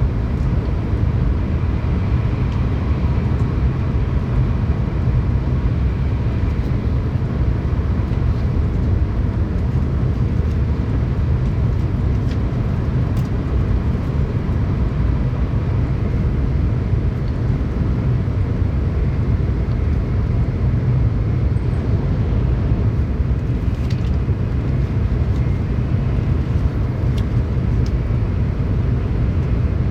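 Steady low rumble of a Tōkaidō Shinkansen train running at speed, heard inside the passenger cabin, with a few faint clicks.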